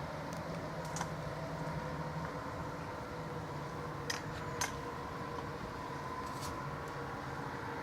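Diesel locomotive engine running with a steady drone, with a few short sharp clicks over it.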